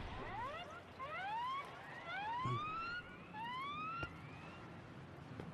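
Birds calling: a string of rising, whistled cries, several overlapping at different pitches.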